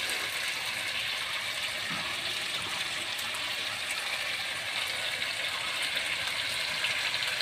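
Chicken pieces in thick masala frying in an aluminium kadai, a steady sizzle with oil already separating from the spices.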